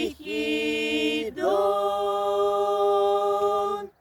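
Unaccompanied choir singing the song's closing words: a short note, then a long final chord that is held and cut off sharply near the end.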